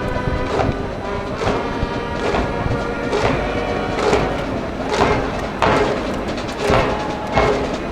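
School cheering band in the stands playing a cheer tune: brass holding the melody over a strong, even drum beat a little faster than once a second.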